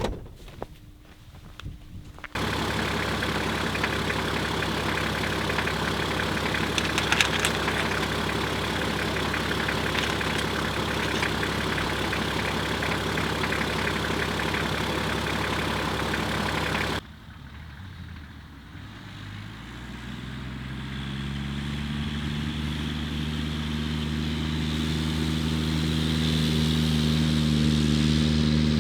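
Car engine running steadily, with a low hum. It cuts off suddenly after about fifteen seconds, then a lower engine hum builds and grows louder toward the end.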